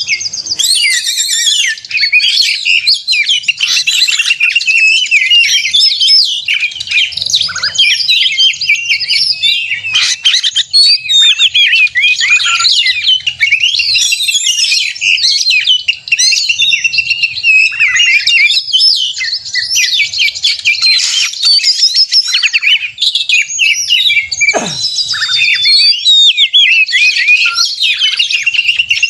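Oriental magpie-robins (kacer) singing in a continuous, dense stream of rapid whistles, trills and chattering notes: the fast challenging 'narung' song of males in fighting mood.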